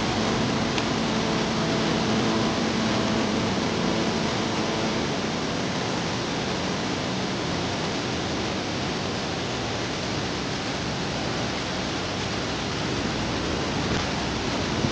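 A river in flood rushing steadily, a constant even noise of fast-flowing water.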